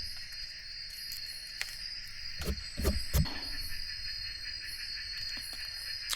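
Steady high-pitched chorus of night insects such as crickets, with three dull knocks from handling things close by about halfway through.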